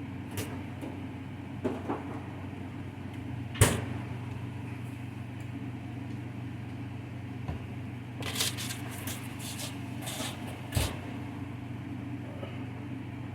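Kitchen handling sounds over a steady low hum: scattered knocks and clatter of dishes, utensils and cupboards, with one loud knock about three and a half seconds in and a quick run of clatter near the end.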